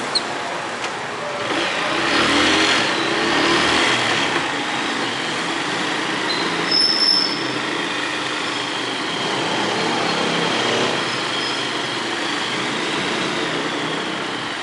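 Road traffic noise, with a vehicle passing and growing louder for a few seconds about two seconds in.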